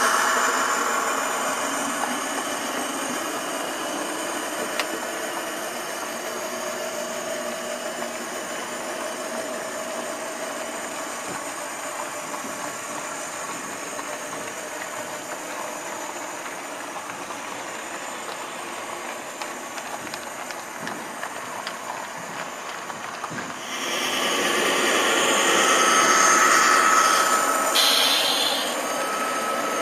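Sound decoder of an HO-scale model diesel locomotive playing a running diesel-engine sound. It gets louder for a few seconds near the end.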